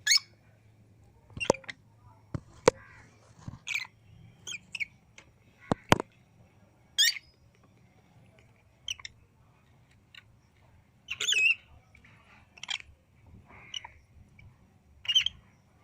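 Pet lovebirds giving short, shrill squawks and chirps every second or so, with a few sharp clicks mixed in.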